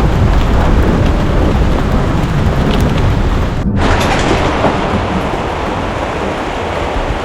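Heavy rain pouring down, a dense steady hiss over a deep rumble, with a brief break in the hiss about halfway through.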